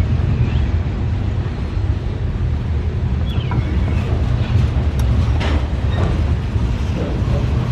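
Freight train rolling past, a steady low rumble, with wind buffeting the microphone and a couple of sharp clicks about five seconds in.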